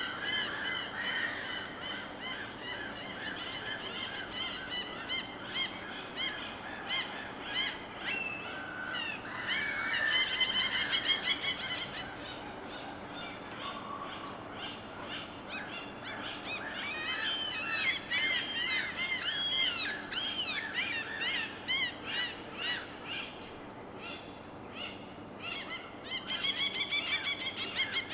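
Birds calling in repeated series of short, honking, harmonic-rich calls, loudest about a third of the way in, with further runs of calls later, over a steady wash of water noise.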